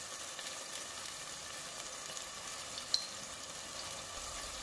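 Onion and tomato masala sizzling gently in oil in a pot, a steady low hiss, with one brief click about three seconds in.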